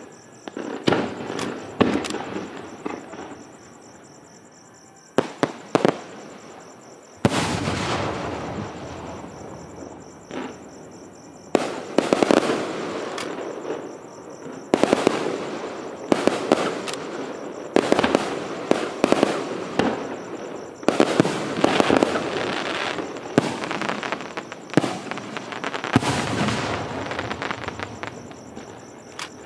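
Aerial fireworks shells bursting: sharp bangs every second or two, each followed by a long rumbling echo, growing into a denser barrage from about seven seconds in.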